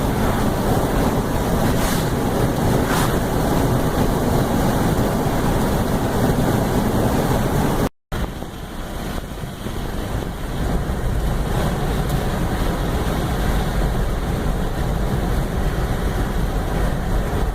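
Strong wind blowing over the microphone, a steady heavy rushing noise. It drops out for a moment about eight seconds in, then resumes slightly quieter.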